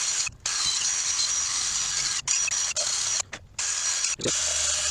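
Steady hissing, scrubbing noise from cleaning an engine casing, cut by several short, abrupt gaps.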